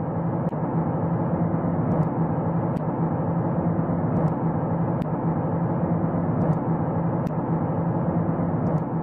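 Sonified space-probe recording of an object in Saturn's system: a steady, dense drone with a low hum and a few faint scattered clicks.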